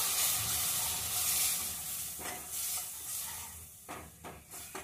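Onion-and-spice masala sizzling in oil in a stainless steel kadai while a steel ladle stirs through it; the sizzle fades, and a few short ladle scrapes and taps on the pan come near the end.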